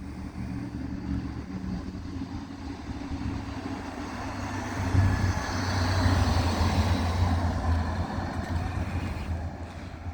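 Fire apparatus driving up, its diesel engine rumble and road noise swelling to a peak about five to seven seconds in, then easing off.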